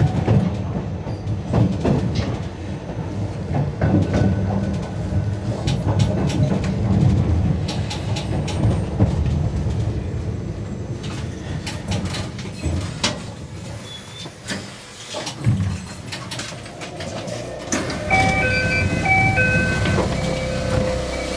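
Yokkaichi Asunarou Railway narrow-gauge (762 mm) train running: a steady low rumble with wheel clicks over the rail joints. Near the end a short run of stepped pitched tones sounds over the running noise.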